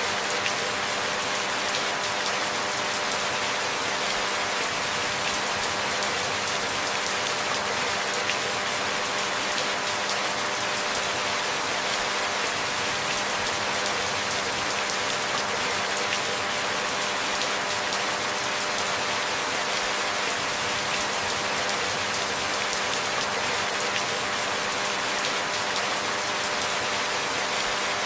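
Steady rain: an even hiss of many small drop ticks that never lets up, with a faint steady hum of a few tones underneath.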